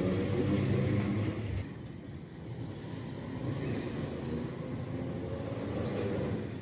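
A motor vehicle engine running, louder for the first second and a half, then quieter and steady.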